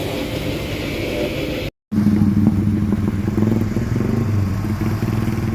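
Heavy truck engine running steadily. It cuts out abruptly for a moment about two seconds in, then resumes a little louder.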